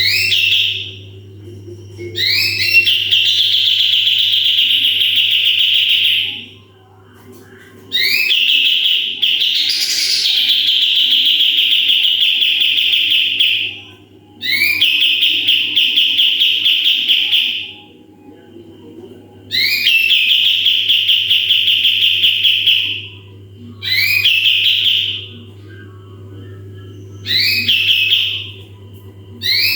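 Kapas tembak bulbul singing its rapid 'tembakan' bursts: each phrase opens with a quick rising note and runs on as a fast, buzzy trill held at one high pitch, repeated about seven times, some phrases brief and some several seconds long. A steady low hum lies underneath.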